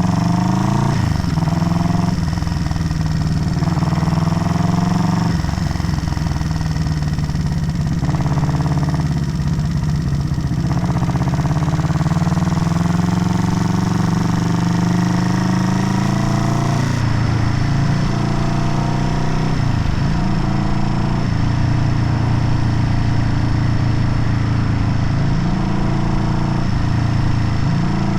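Showa-era Honda CB motorcycle engine running under way, rising in pitch as it accelerates and dropping at each gear change, several times over.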